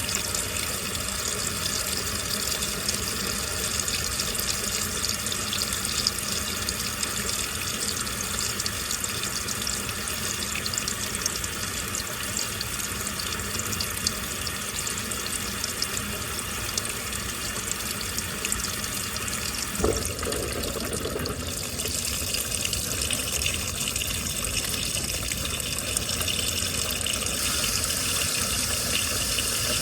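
Water running steadily into a washing machine drum as it fills, a constant rushing splash. A single click about twenty seconds in, after which the rush changes slightly in tone.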